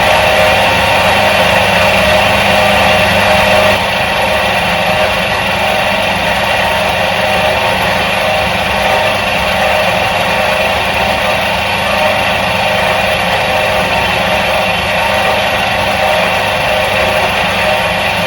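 Electric motor of a 1977 Soviet washing machine running steadily, a dense hum with many steady tones. It turns slightly quieter about four seconds in.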